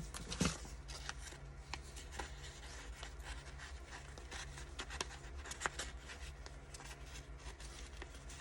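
Paper envelopes and journal pages being handled: scattered light rustles, slides and soft taps of paper over a steady low hum.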